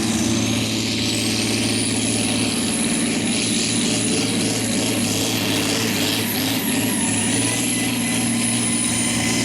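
Hot farm class pulling tractor's engine running steadily, with a thin high whistle that rises just after the start and then holds high, wavering a little. The announcer calls it a sound he doesn't recognise.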